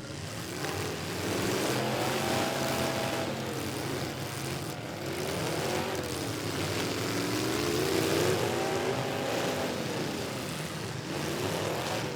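Demolition derby pickup truck engines revving, their pitch rising and falling again and again as the trucks accelerate and back off, over a steady hiss of background noise.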